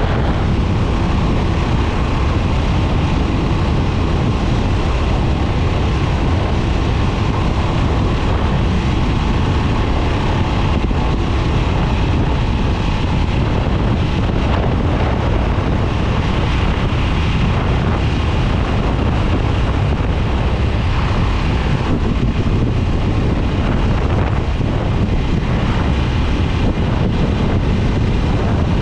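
2022 Harley-Davidson Nightster's Revolution Max 975T V-twin running steadily while the bike is ridden, with wind rushing over the microphone.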